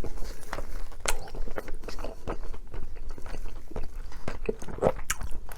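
Close-miked chewing and biting of food, with irregular wet clicks and small crunches.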